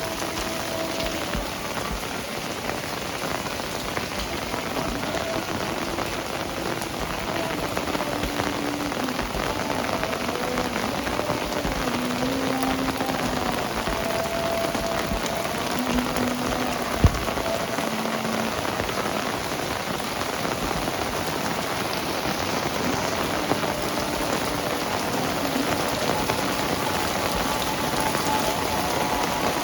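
Heavy rain falling steadily and densely on surfaces. There is one sharp tap or knock about halfway through.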